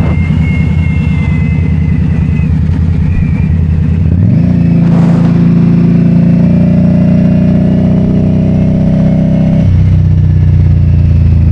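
A motor vehicle's engine running under way. Its pitch steps up and the sound grows louder about four seconds in, holds steady, then drops back near the end.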